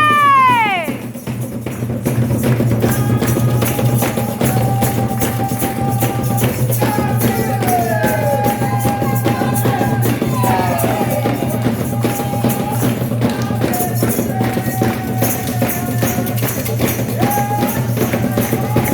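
Ritual percussion music of drums and shaken or struck percussion beating a fast, steady rhythm, with a voice singing held, sliding notes over it; a loud pitched note at the very start falls away within the first second.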